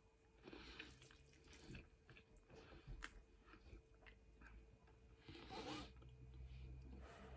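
Faint chewing and wet mouth sounds of someone eating cheesy spaghetti, with scattered small clicks, and a louder wet mouth sound about five and a half seconds in as a forkful of noodles reaches the mouth.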